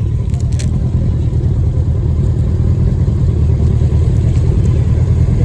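Motorcycle engine running steadily under way, a dense low rumble heard through wind noise on the rider's phone microphone.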